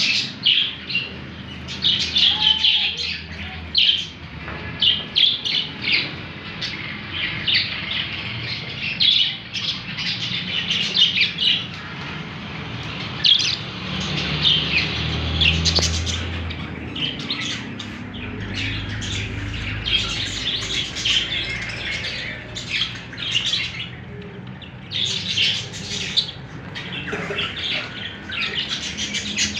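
A flock of caged Australian parrots chattering continuously, with many overlapping short chirps and squawks.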